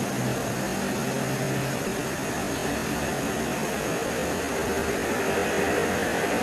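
Steady night-time forest ambience: a dense, even hiss with a faint high steady whine and a low hum underneath, with no distinct calls or knocks.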